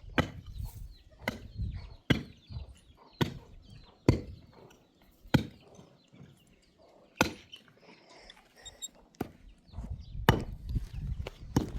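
Repeated sharp strikes, about ten in all, roughly one a second with a couple of longer pauses midway.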